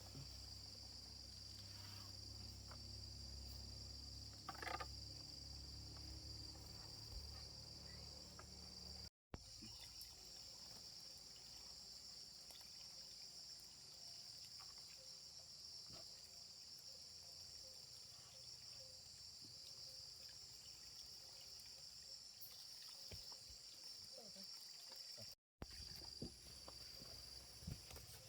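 Steady chorus of forest insects, a constant high buzzing trill, with a few faint knocks; it drops out for an instant twice.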